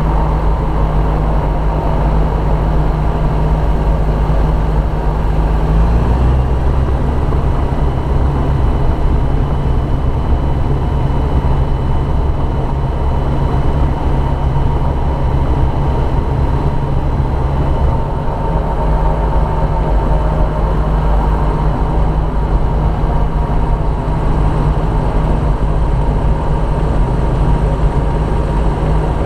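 Light aircraft's piston engine running with a steady drone. Its note shifts about six seconds in and again about eighteen seconds in, as the power setting changes.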